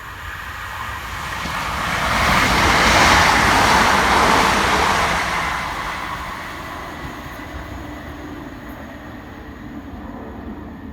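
Class 387 electric multiple unit passing through at speed without stopping: a rush of wheels on rail and air that swells to a peak about three seconds in, then fades as it goes away.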